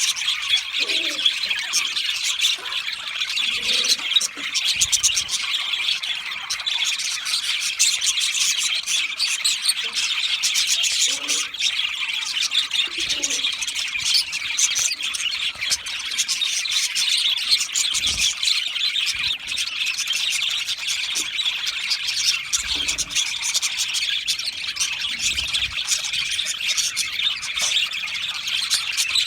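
A flock of budgerigars chirping and chattering together: a continuous dense mix of rapid high chirps, warbles and squawks with no pauses.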